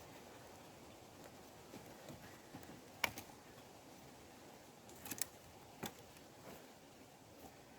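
Wood campfire crackling faintly, with a few sharp pops: one about three seconds in, a quick pair just after five seconds, and one near six seconds.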